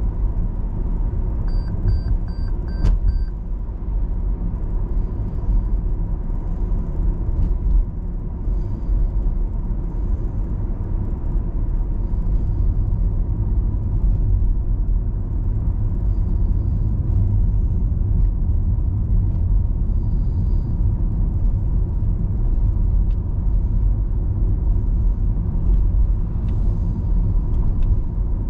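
Car driving on city roads: a steady low rumble of engine and tyre noise. About two seconds in come five short, evenly spaced high beeps and a single click.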